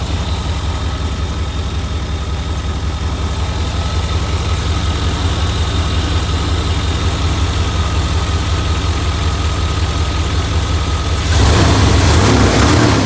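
1989 GM 5.7-litre 350 V8 idling steadily with the spark plug wires reinstalled in the correct firing order, all cylinders firing and without the loping, diesel-like rhythm it had before. About eleven seconds in the sound turns suddenly louder and noisier.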